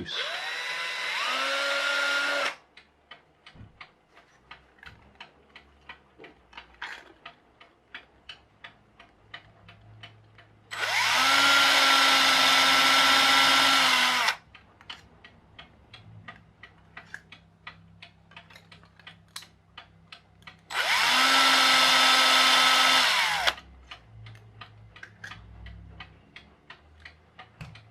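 Electric drill spinning a steel axle rod as a bit through a 3D-printed plastic part, in three short runs that each speed up at the start: one at the beginning, one about ten seconds in and one about twenty-one seconds in. The rod heats up as it goes through and melts into the plastic. Between the runs a clock ticks steadily.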